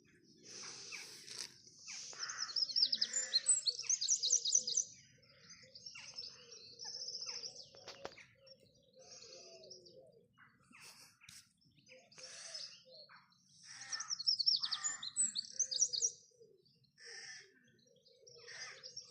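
Small birds singing: two spells of rapid, high trilled chirping, the first about two seconds in and the second around fourteen seconds, with scattered single chirps between.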